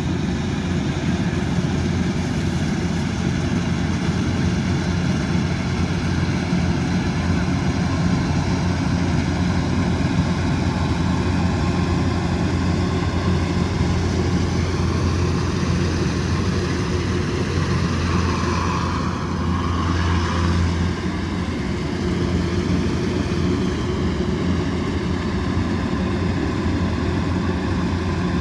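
Kubota DC108X combine harvester running with a steady diesel engine drone. The sound shifts briefly about two-thirds of the way through, then settles back.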